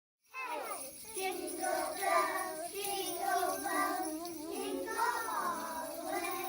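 Several young children's voices singing together, the words unclear, starting abruptly just after the beginning.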